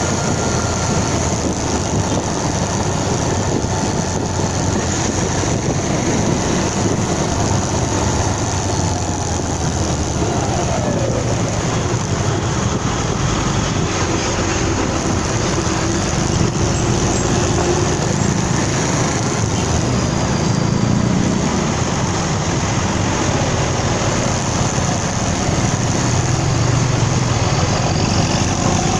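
Motorcycle engine running while riding on the road, mixed with a steady rush of road noise.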